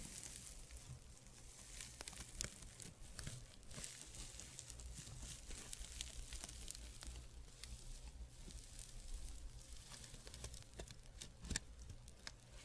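Fabric rubbed close to the microphone: a soft, continuous rustling, broken by many small crackles.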